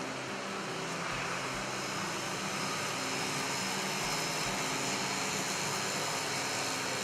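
International 986 tractor's diesel engine running steadily.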